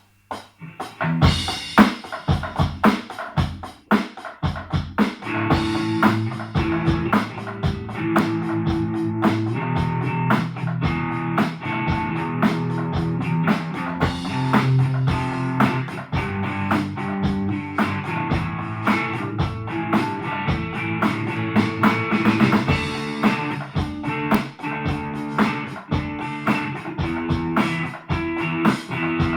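Guitar and drum kit played together as a band jam, with a fast, steady run of drum hits under held guitar notes. The playing starts about a second in.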